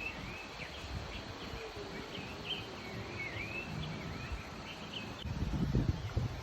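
Outdoor ambience of birds chirping, with many short high calls, some dipping down and back up in pitch. Underneath is a low rumbling noise that comes in stronger bursts near the end.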